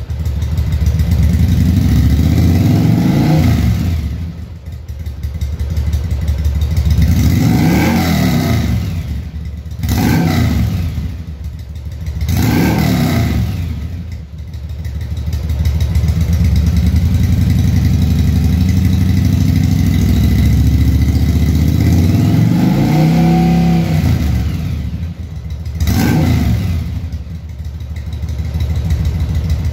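1985 Yamaha Virago V-twin running through straight pipes with Akrapovic end cans, idling and being blipped about six times, each rev rising and falling quickly back to idle, with a longer stretch of idle in the middle.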